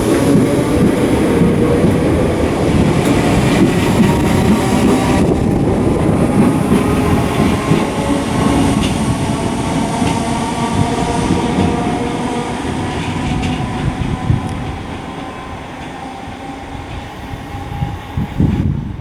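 Merseyrail PEP electric multiple unit moving through the station: the rumble of wheels on rail with steady whining tones over it, fading away over the last few seconds.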